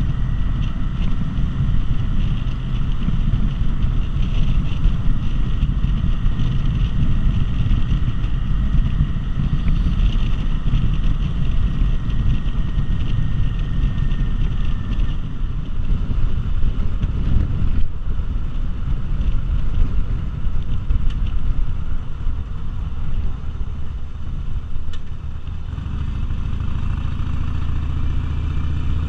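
Cruiser motorcycle engine running steadily at road speed, mixed with wind and road rush, as heard from a moving bike.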